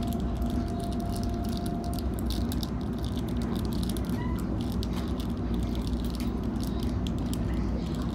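Cabin noise of a Sydney Trains Waratah A set electric train running along the track: a steady low rumble with light rattling and clicking. A faint steady whine stops about two seconds in.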